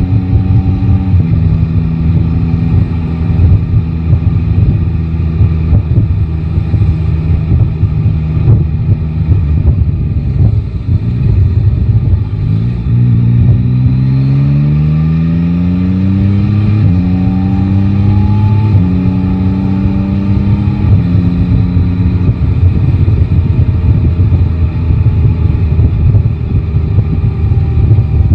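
Yamaha Tracer 9 GT's 890 cc inline-three engine running at low revs, then about halfway through accelerating: the pitch climbs, drops at a gear change, climbs again and drops at a second change, then eases back down.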